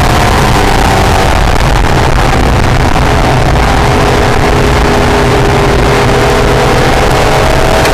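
Acura NSX V6 engine running hard on a race track, its note dropping early on, holding lower through the middle and climbing again near the end, over heavy low wind and road rumble.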